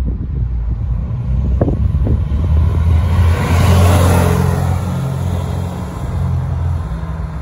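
Supercharged 1956 Volkswagen Karmann Ghia with its 1200cc air-cooled flat-four and stainless sports exhaust, driving past close by. The engine note swells to its loudest about four seconds in, then eases as the car moves away.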